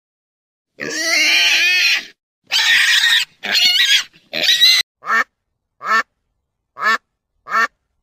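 Pigs squealing in four long, loud, high-pitched calls, then a mallard duck quacking four times, about once a second.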